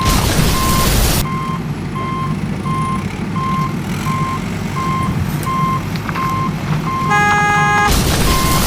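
Reversing alarm beeping steadily, a little under twice a second, over a low steady engine rumble. A hiss fills the first second and returns near the end, and a short chord of steady tones sounds for under a second about seven seconds in.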